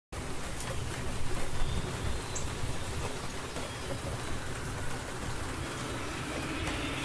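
Recorded rainstorm playing back: steady heavy rain with a low rumble underneath. A higher tone swells in near the end.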